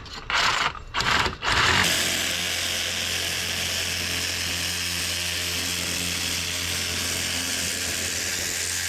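60-volt cordless saw cutting through metal on an air-conditioner unit. It runs in a few short bursts at first, then cuts steadily from about two seconds in.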